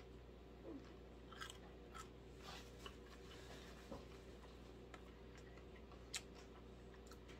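Faint chewing of a mouthful of cheese pizza, with scattered soft mouth clicks over a low steady hum.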